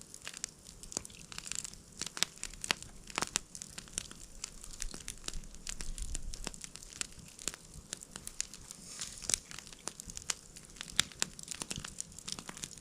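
Campfire crackling: a dense, irregular run of sharp pops and snaps from the burning wood.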